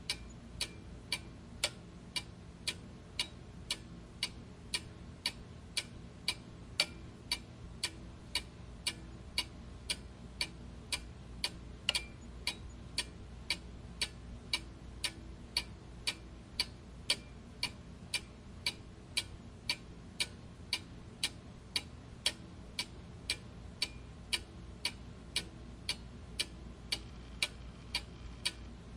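Clock ticking steadily in an even tick-tock, about two ticks a second, over a faint low hum.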